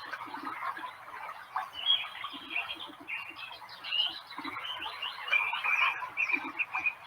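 Birds chirping and calling in a nature soundscape, many short high calls overlapping, with short low blips repeating underneath.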